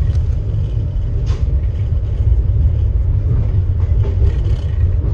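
Steady low rumble of a moving passenger train, heard from inside a sleeper compartment.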